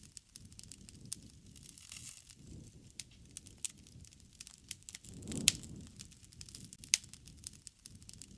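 Wood campfire crackling: irregular sharp pops and snaps over a low rumble of flame. The rumble swells about five and a half seconds in, together with the loudest pop.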